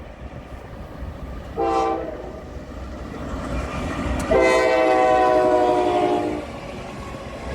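Norfolk Southern diesel locomotive's air horn sounding a short blast, then a long blast of about two seconds, over the low rumble of the train coming closer.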